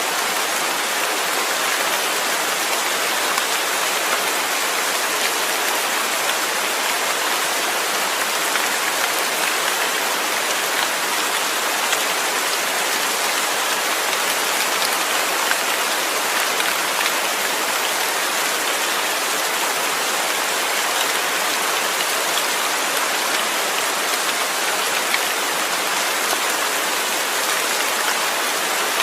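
Steady rain, a dense even hiss of drops with faint scattered patters of individual drops.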